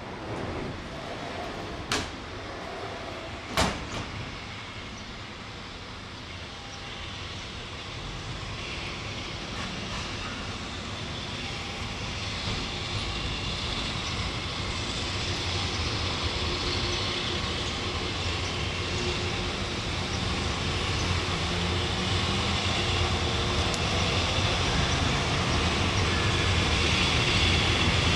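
A JR Freight Class EH200 electric locomotive hauling a freight train approaches, and its running noise grows steadily louder. There are two sharp clicks about two and three and a half seconds in.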